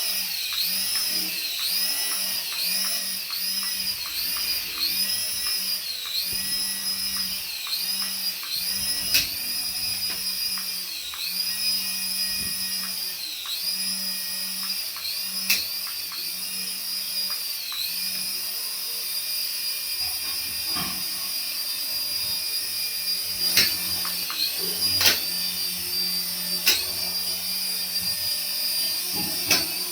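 Small electric motor of a remote-control toy whining, its pitch dipping and climbing back again and again as the speed changes, with a few sharp clicks in the second half.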